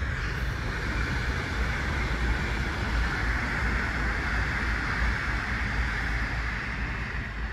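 Deutsche Bahn ICE high-speed train passing at speed, a steady rushing noise of wheels on rail that eases off near the end.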